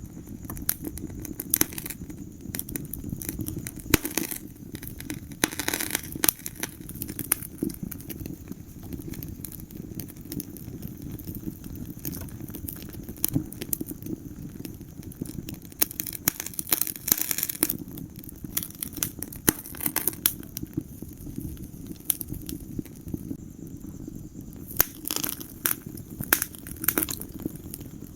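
Wood fire crackling in a fireplace: irregular pops and snaps, thicker in a few short flurries, over a low steady rumble.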